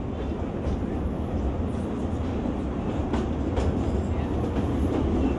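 Narrow-gauge railway carriage running along the track, heard from inside the coach: a steady rumble of wheels on rail with a couple of sharp clicks about three seconds in, growing slightly louder as the train runs into a tunnel.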